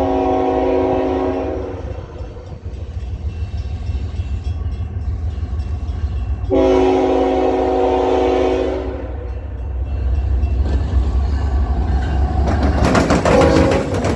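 Locomotive horn sounding two long chord blasts, a few seconds apart, over the low rumble of the train. Then the train comes past close, with wheel and rail noise and clatter building toward the end.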